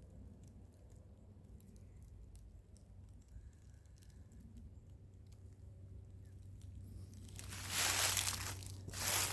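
Footsteps crunching through the forest floor, starting about seven seconds in as a run of loud rustling crunches after a near-quiet stretch.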